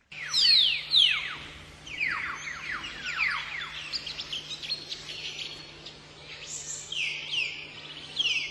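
Common hill myna calling: runs of quick, sharply falling whistles, loudest in the first second and again around three seconds in, with higher runs near the end. A steady low hum sits underneath.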